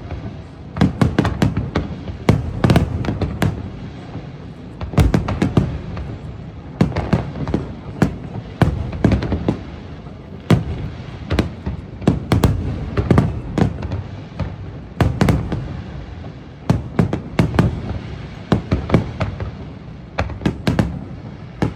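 Aerial fireworks exploding in repeated volleys, with clusters of sharp bangs every second or two over a low rumble.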